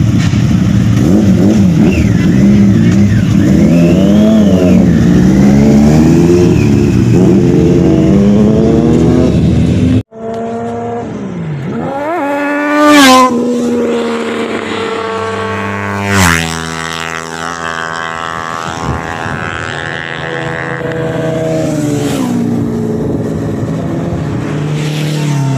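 Superbike engines at full throttle. First a motorcycle engine running with wavering revs; then, after a cut, superbikes making high-speed fly-bys, each engine rising in pitch and peaking loudly as it passes, twice, then pulling away through the gears.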